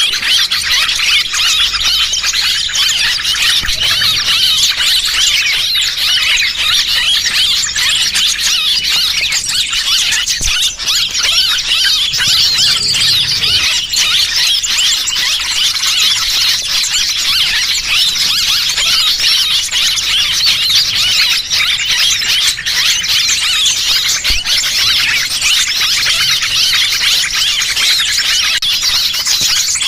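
Small-bird lure sound: a dense, unbroken mass of high-pitched chirps and twitters from many small birds, used to draw small birds in to be trapped.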